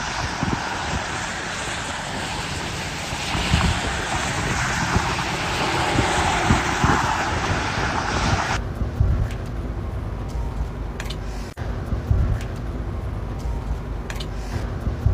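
Outdoor ambience: a steady rushing noise that cuts off abruptly about two-thirds of the way in. A lower rumble with a few scattered clicks follows.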